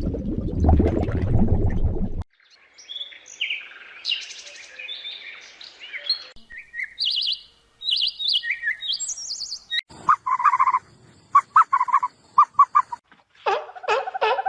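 Birds chirping and tweeting in quick, varied high calls, after a short stretch of low rumbling noise that cuts off about two seconds in. Later comes a run of short, repeated calls at a lower pitch.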